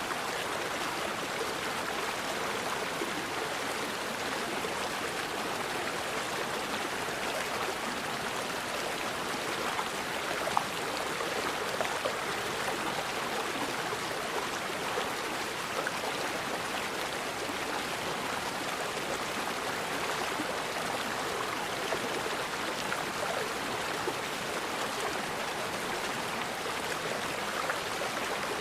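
Forest river water flowing steadily over rocks, an even rushing babble with a few brief louder splashes or clicks around ten to twelve seconds in.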